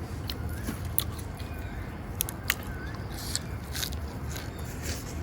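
A person biting and chewing food, with a few scattered sharp crunches, over a steady low background rumble.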